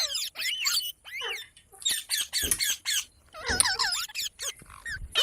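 Pet parrot chattering in rapid, high-pitched chirps and squeaks that come in several quick bursts with short pauses between them.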